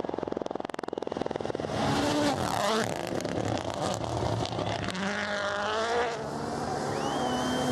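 Rally car engine at high revs, its note rising and falling through gear changes, with a fast stuttering pulse in the first second and a half.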